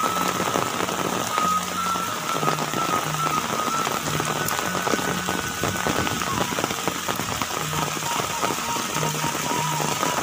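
Steady rain falling on thatched roofs, foliage and muddy ground, a continuous even patter. Soft background music with a slow melody and low bass notes plays under it.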